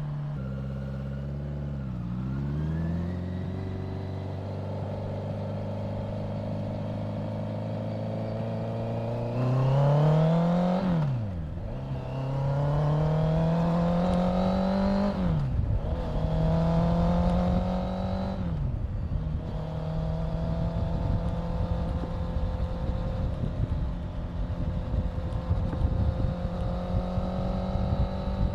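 Honda CBR650F's inline-four engine on the move, the revs climbing and then dropping sharply at each of three quick upshifts, then holding steady at a cruise with wind rushing over the microphone.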